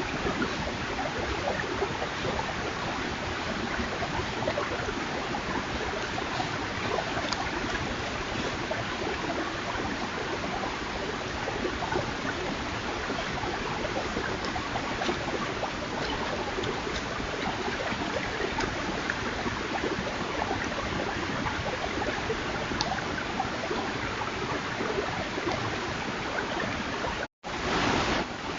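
Steady rushing noise picked up by a trail camera's microphone, broken by a moment's silence near the end and then a short louder rush.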